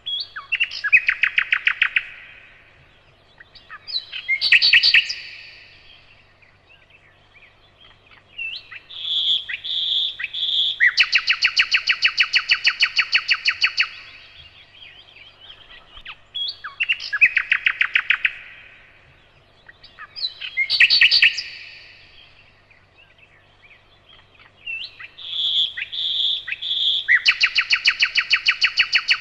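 A nightingale singing: loud phrases of fast repeated notes and rapid trills, a few seconds each, with short pauses between them. The same run of phrases comes round again about every 16 seconds.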